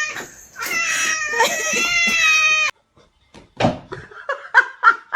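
A cat yowling in one long, drawn-out meow that wavers in pitch and cuts off abruptly about two and a half seconds in. A thump follows, then a quick run of short, rhythmic sounds near the end.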